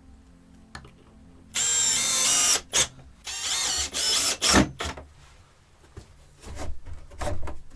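Power drill running in several short bursts with pauses between them, the longest about a second.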